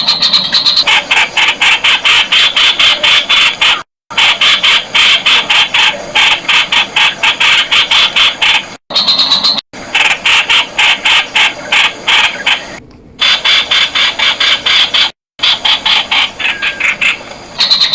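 Streak-eared bulbul calling: a fast run of sharp, loud notes, about five a second, broken by a few brief silent gaps.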